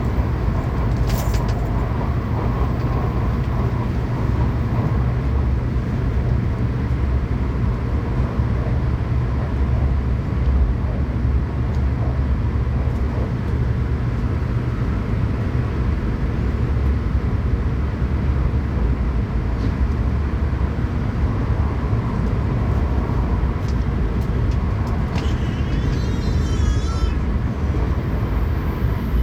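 Steady low rumble and hiss of a Shinkansen bullet train running at speed, heard from inside the passenger cabin. There is a click about a second in and a brief wavering high-pitched whine near the end.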